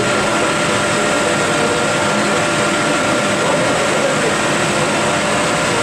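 Biomass sawdust burner feeding a steam boiler, running with a loud, steady rushing noise of fan and flame, with a few faint steady whining tones over it.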